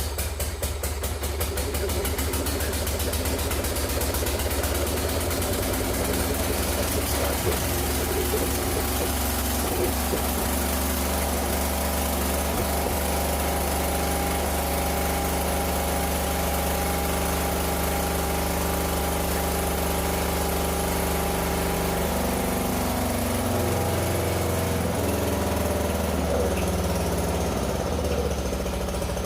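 Small Briggs & Stratton engine of a 1997 Mastercraft 12.5 hp lawn tractor running steadily at idle, its note shifting for a few seconds near the end.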